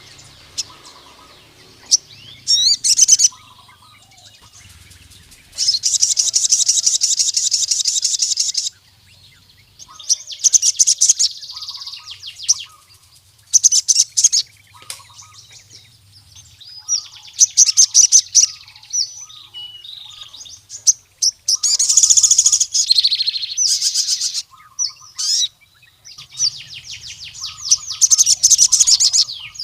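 A male sogon (brown-throated sunbird) singing in loud bursts of rapid, high trills and chirps, a phrase every few seconds with short pauses between. It is the full, vigorous song of a bird challenging a rival male.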